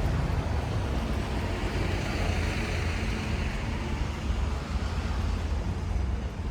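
Road traffic: a low engine rumble with tyre hiss from a passing vehicle, swelling to its loudest about two and a half seconds in and then fading.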